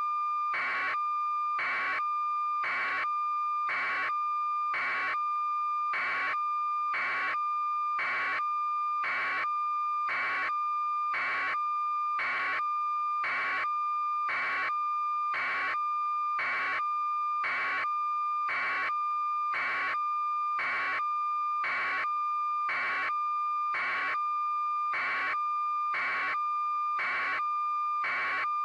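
Electronic alarm signal: a steady high tone under an even beeping, about one and a half beeps a second, unchanging throughout.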